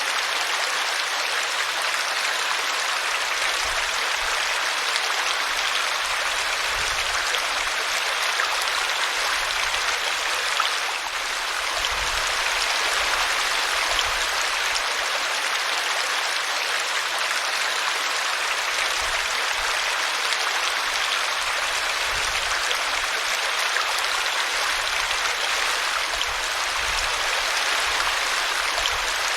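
A small brook splashing steadily over a tree root, a continuous rushing babble of water.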